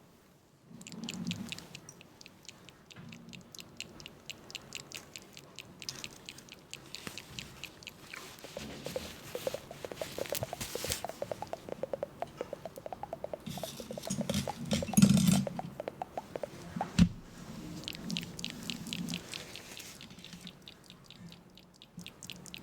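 Close-miked ASMR trigger sounds: rapid, fine scratching and crackling right at the microphone, with soft thuds, a louder stretch about two-thirds of the way through and a single sharp knock shortly after.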